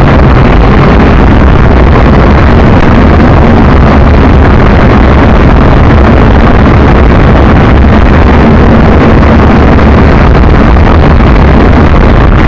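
JJRC H12C quadcopter's four motors and propellers running in flight, recorded by its own onboard camera microphone as a very loud, steady rushing drone with wind buffeting the microphone.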